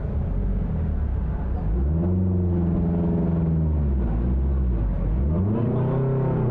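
A motor vehicle's engine revving up, holding, and dropping back, twice, over a steady low rumble.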